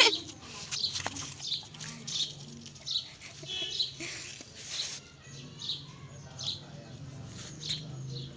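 A small bird chirping over and over, short high chirps about every two-thirds of a second, with a faint steady low hum underneath.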